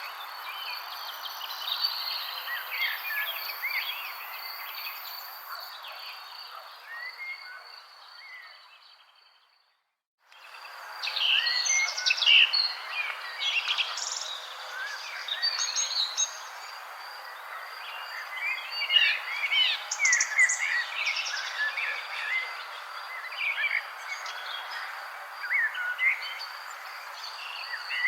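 Many songbirds chirping and warbling over a steady high insect trill and a soft background hiss. The whole sound fades out to silence about nine seconds in and returns a second later, with the chirping busier afterwards.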